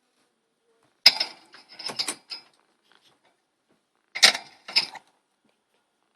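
Quaker (monk) parrot giving harsh, scratchy chirps in two short bursts, about a second in and again about four seconds in: a brooding hen calling defensively over her eggs.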